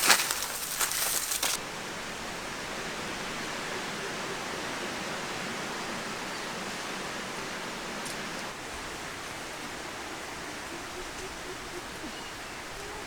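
Brief loud rustling and crackling at the start, then a steady, even rushing noise, slightly quieter from about eight seconds in.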